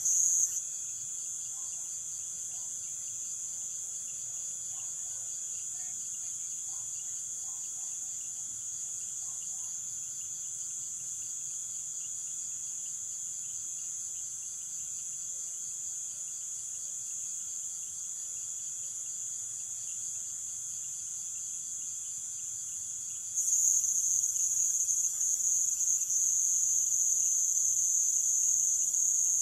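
A night chorus of insects in Amazon rainforest, a continuous high-pitched trilling buzz. It drops to a quieter level about half a second in and returns at full strength about 23 seconds in.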